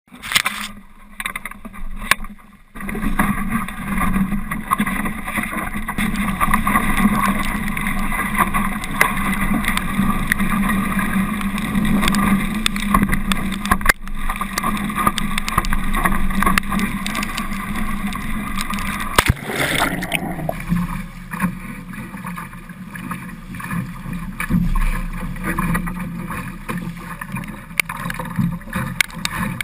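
Water rushing and splashing along a Laser sailing dinghy's hull as it sails, with wind buffeting the camera microphone. The sound changes abruptly about twenty seconds in.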